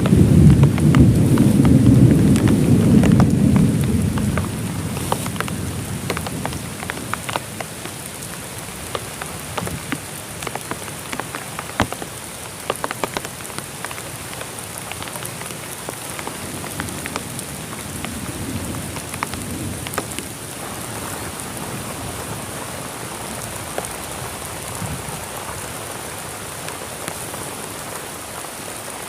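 Heavy rain falling steadily, with loud single drops ticking close by. A low rumble of thunder fades away over the first four seconds.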